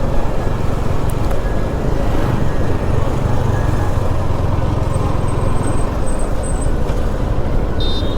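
Motorcycle riding at speed: engine running with heavy wind rumble on the action camera's microphone. Near the end there is a brief high-pitched chirping tone.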